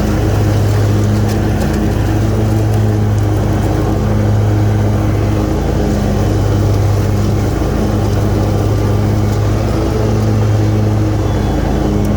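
Kawasaki FX V-twin engine of a Hustler X-ONE commercial zero-turn mower running steadily at high throttle with the cutting blades engaged, mowing grass.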